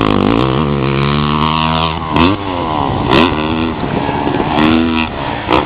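Motocross motorcycle engines revving, their pitch climbing and falling repeatedly as the throttle is worked.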